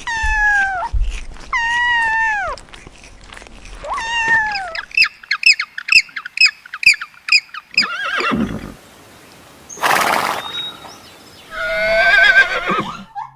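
A string of animal calls: three drawn-out calls that sag in pitch at the end, then a quick run of short, high chirps, a brief low sound, a short noisy burst, and a wavering call near the end.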